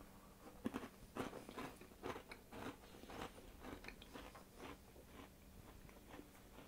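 A person biting and chewing a crunchy pistachio biscuit: faint, irregular crunches that thin out toward the end.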